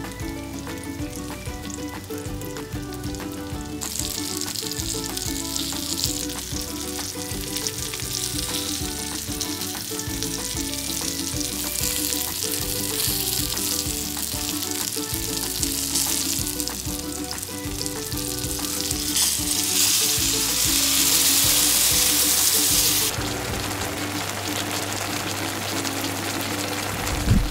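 Starch-dusted salmon pieces and chunks of nagaimo (Chinese yam) sizzling steadily as they pan-fry in oil. The sizzle swells louder for a few seconds about two-thirds of the way in, then eases off. Soft background music runs underneath.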